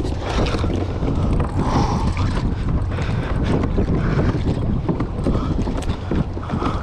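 Strong wind buffeting a GoPro's microphone, a loud continuous rumble, with water splashing against a kayak.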